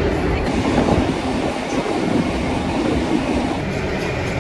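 A train running along the rails with a steady noise of wheels and carriages.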